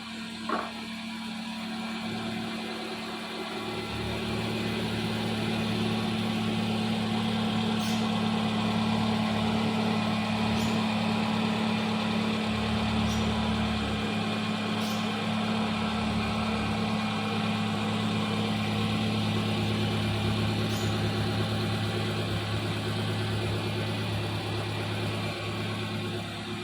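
Toyota Camry engine idling steadily, growing a little louder over the first few seconds, with a sharp click just after the start.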